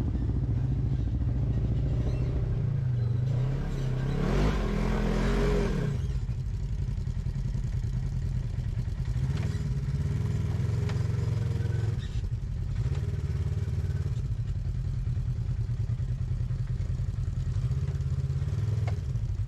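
Off-road rock crawler's engine running steadily at low revs, with a short, louder rev about four seconds in.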